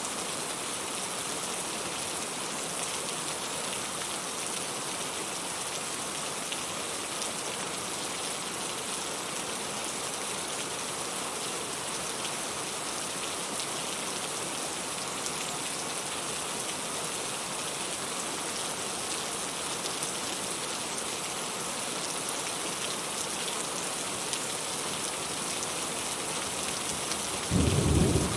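Steady rain falling, an even hiss with faint patter. Near the end a brief, louder low thump breaks in.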